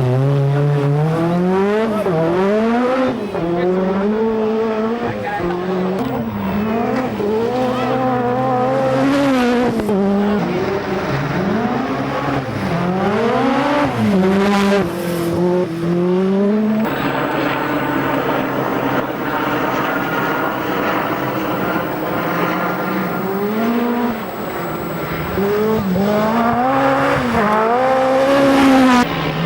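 Peugeot 205 T16 Group B rally car's turbocharged 1.8-litre four-cylinder engine driven hard, its pitch climbing and dropping again and again through gear changes and lifts. About two-thirds of the way through, the sound changes abruptly.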